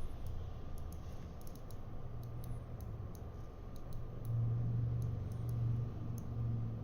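Scattered light clicks and taps of small parts and tools being handled during a smartwatch teardown, over a steady low hum.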